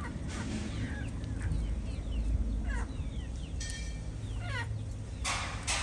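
Birds chirping: a string of short calls, each falling in pitch, over a steady low hum, with a burst of harsh rasping noise near the end.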